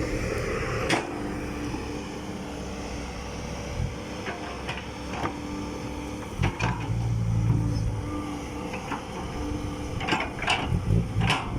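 Diesel dump truck engine running under load, droning steadily with a swell in the middle, with wind buffeting the microphone and scattered short knocks.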